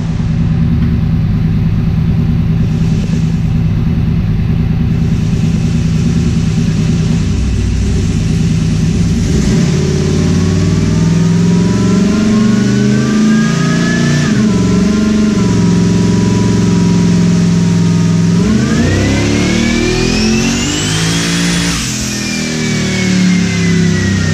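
Twin-turbo 376-cubic-inch LS V8 running on a chassis dyno: steady running, then a rising whine from about ten seconds in that dips and holds, before the revs climb steeply to a high whine and wind back down near the end.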